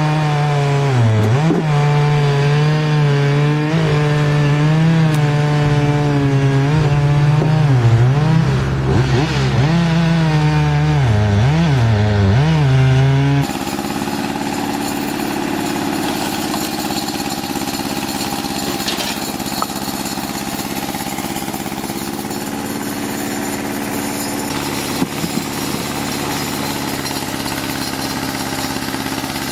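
Chainsaw running near full throttle, its pitch dipping and recovering again and again as it bogs down in the cut. About halfway through it gives way abruptly to a different engine running steadily.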